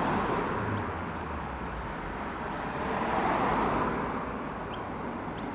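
A car driving past, its engine and tyre noise swelling about three seconds in and then fading.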